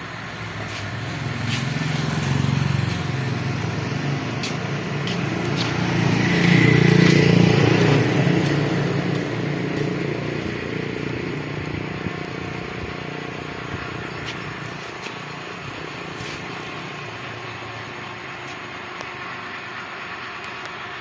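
Road traffic passing close by, a vehicle engine growing louder to a peak about seven seconds in and then slowly fading.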